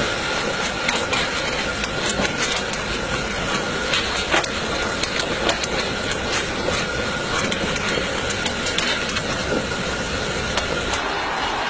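Miniature coal-fired steam locomotive running on its track: a steady rushing noise with irregular sharp clicks throughout.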